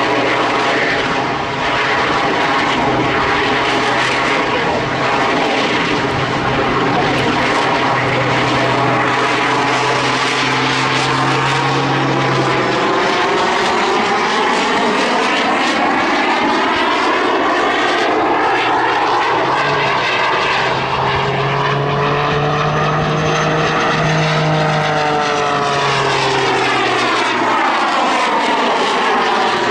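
Jet Pitts aerobatic biplane flying its display, its piston engine and propeller running together with its added jet engines in a loud, steady drone. In the second half the tone sweeps down and back up as the plane passes.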